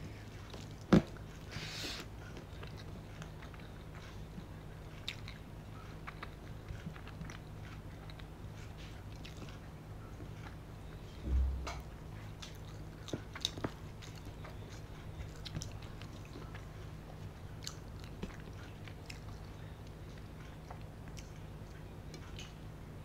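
Close-miked mukbang eating sounds: soft chewing and small mouth clicks, with fingers mixing rice and curry on a steel plate, over a low steady hum. A sharp click about a second in and a dull low thump near the middle stand out.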